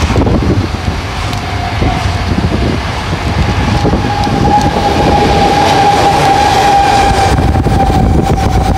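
Keihan train running past with a low rumble and a steady high squeal that starts about a second in and grows louder from about four seconds in. The line here is one of steep grades and sharp curves.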